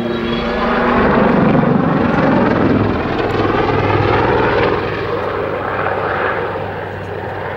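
Westland Lynx helicopter's rotor and engines during a display backflip manoeuvre. The sound is loudest a second or two in, then slowly fades.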